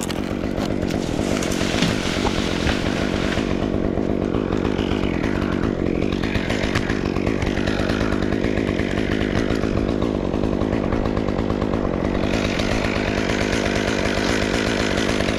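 Two-stroke chainsaw running without a break while cutting cherry wood, with a harsher hiss in the cut during the first few seconds and again near the end.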